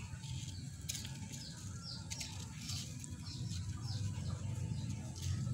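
A bird chirping: a string of short, high chirps that fall in pitch, about two a second, over a low rumble with a few light clicks.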